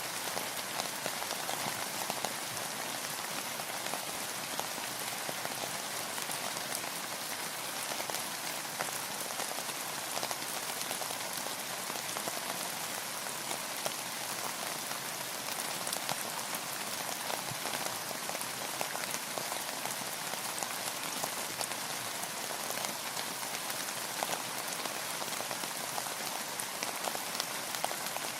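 Steady rain falling, a constant hiss dotted with many small drop patters.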